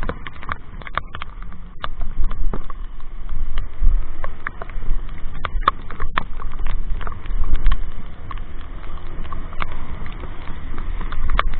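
Wind rumble on a motorcycle rider's microphone while riding, with many irregular sharp taps, typical of raindrops striking the helmet or microphone.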